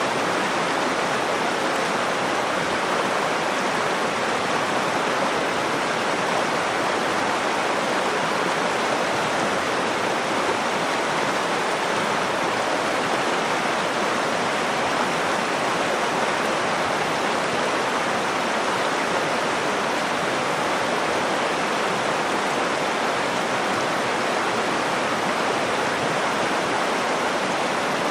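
Nakdong River water flowing, a steady, unbroken rush.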